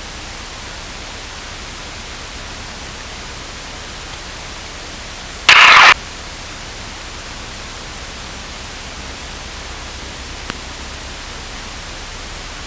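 Steady hiss of aircraft radio/intercom static, with one short, loud burst of static about halfway through and a faint click a few seconds later.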